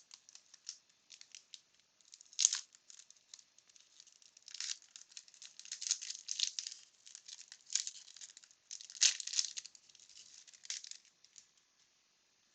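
Wax paper wrapper of a 1992 Bowman baseball card pack being torn open and handled, in irregular short bursts of crinkling and tearing that die away near the end.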